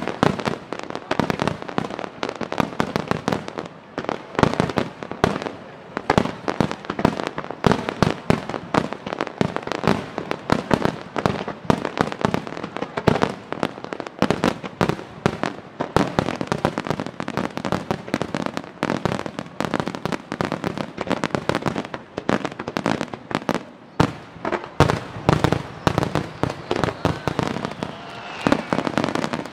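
Fireworks display: aerial shells bursting in rapid, overlapping bangs, many a second, with no let-up.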